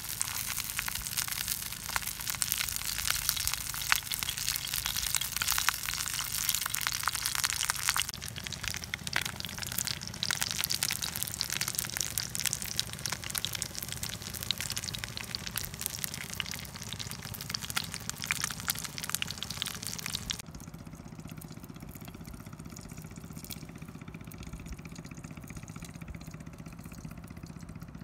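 Eggs frying in a cast-iron pot, a dense crackling sizzle. The sizzle drops in level abruptly about eight seconds in. About twenty seconds in it gives way to a quieter, steady low background sound.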